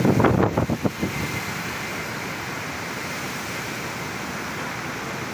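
Heavy rain falling in a storm, a steady dense hiss. In the first second a quick cluster of loud low thumps stands out, then the rain runs on evenly.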